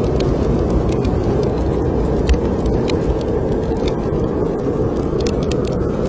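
Snowstorm wind blowing in a steady low roar, with a wood fire in a fireplace crackling in scattered sharp pops, several close together near the end.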